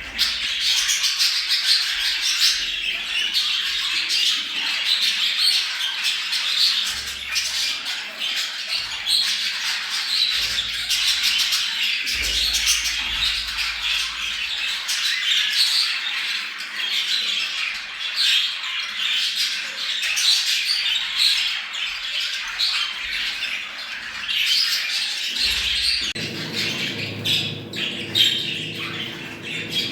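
A flock of budgerigars chattering, warbling and squawking without pause: budgie breeding chatter of the kind played to bring budgies into breeding condition. A low steady hum comes in near the end.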